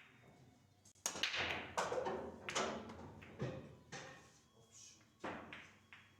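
Pool balls clacking and knocking: a sharp hit about a second in, then a string of irregular knocks over the next few seconds.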